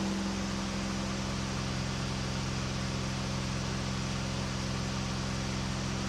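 KR2 light airplane's engine and propeller running steadily in flight, heard inside the small cockpit: an even low drone over a constant rush of air.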